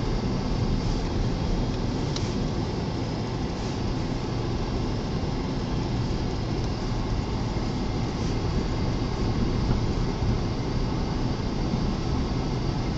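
Steady low rumble inside a car's cabin as it drives slowly through a blizzard, with the engine, tyres on snow and gusting wind against the car blending into one even noise.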